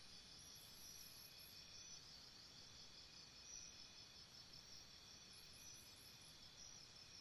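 Faint, steady chorus of singing insects with a pulsing trill, and a higher, thinner trill joining in twice for about a second each time.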